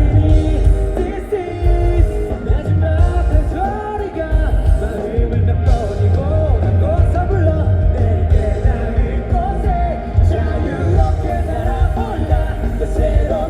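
Live band playing a rock song with singing, heard loud from the audience, with a heavy bass and drum beat under the voices.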